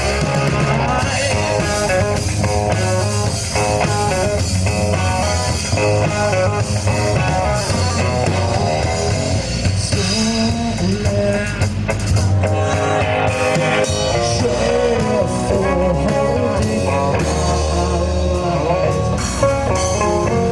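Rock band playing live, an instrumental passage with guitar and drum kit.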